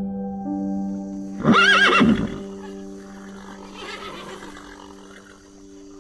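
An animal call rings out once, loud and wavering then falling in pitch, about one and a half seconds in, over soft background music with held notes.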